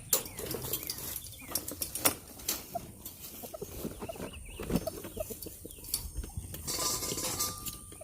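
Chickens making short, soft clucks and peeps, mixed with scattered clicks and knocks as the birds are handled in their cage.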